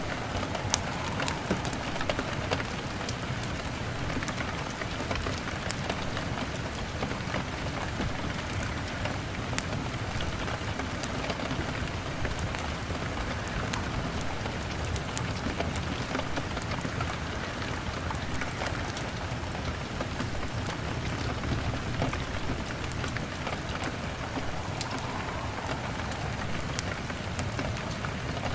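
Steady rain pattering on a window pane, with scattered sharp crackles and pops from a wood fire.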